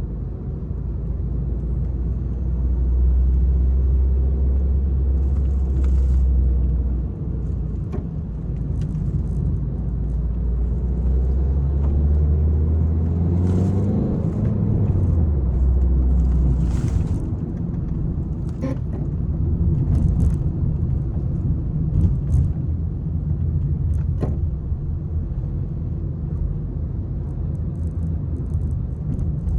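Peugeot 301 car driving, its engine and road noise a steady low rumble. The engine pitch rises about halfway through and drops again a few seconds later, and sharp clicks and knocks come now and then in the second half.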